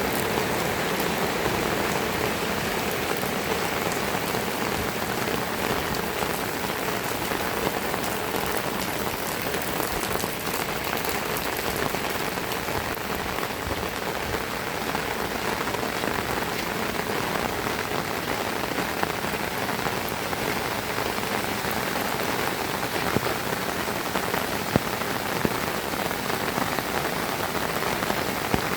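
Heavy rain falling steadily, a dense even hiss of drops on surfaces, with a few sharper drop impacts near the end.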